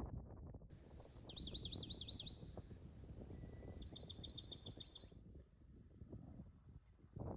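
Songbird singing in two quick trills of rapidly repeated high notes, each about a second long, the first opening with a short whistle. A low steady rumble runs underneath.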